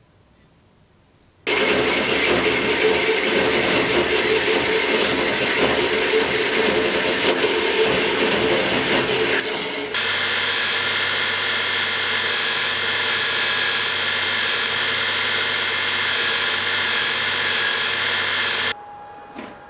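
A power tool starts suddenly about a second and a half in and runs loudly, working on handle material. About halfway through its sound changes abruptly to a steadier whine with several fixed pitches, and it stops suddenly near the end.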